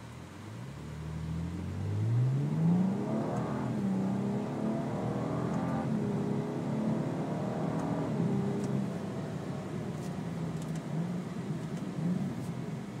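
BMW 135i's N55 turbocharged inline-six accelerating through an Agency Power downpipe-back exhaust with resonated midpipe. The engine note climbs in pitch over the first few seconds, changes pitch a few more times, then settles to a steadier run.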